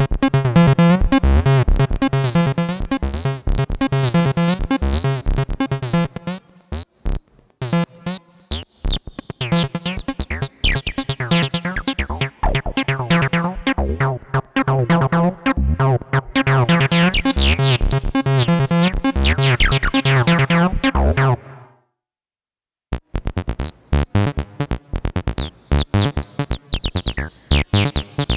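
Behringer TD-3-MO, a 303-style monophonic bass synthesizer, playing a sequenced acid bassline: a fast run of short notes with a resonant filter sweeping the brightness up and down. The pattern stops about three-quarters of the way through, and after a second of silence a new, choppier pattern starts.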